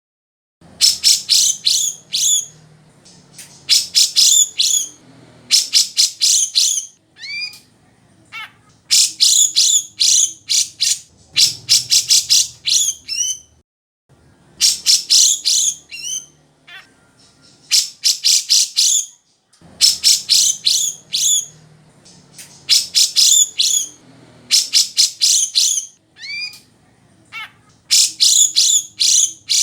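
Grey-cheeked bulbul (cucak jenggot) singing loudly and continuously. Its song comes in bursts of rapid, high notes about every two seconds, with a few slurred, falling whistles between them.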